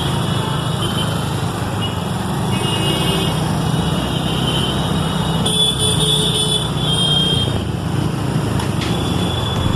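Steady road vehicle and traffic noise, with short higher tones that come and go.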